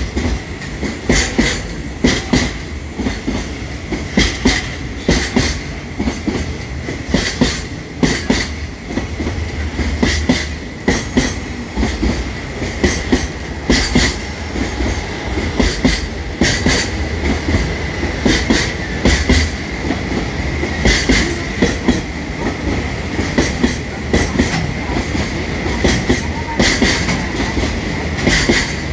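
A train running past on the rails, its wheels clattering over rail joints in a steady repeating clickety-clack, often in pairs, over a continuous rolling rumble, with a steady high whine alongside.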